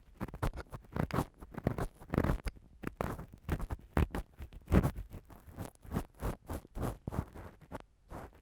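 Ear-cleaning tool scratching and rubbing right against a microphone, in quick irregular strokes, several a second, for ASMR ear-cleaning sounds.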